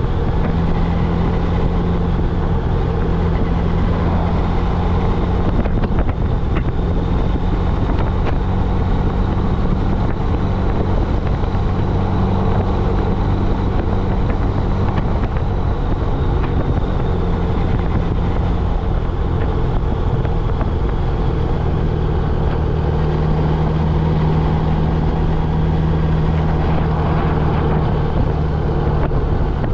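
Honda GL1100 Gold Wing's flat-four engine running at a steady cruise under wind and road noise while riding. The engine note shifts slightly about halfway through and again a little after three quarters of the way.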